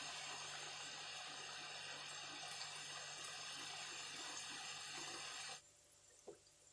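Shakarpara dough pieces deep-frying in hot oil, a steady sizzle that cuts off abruptly near the end.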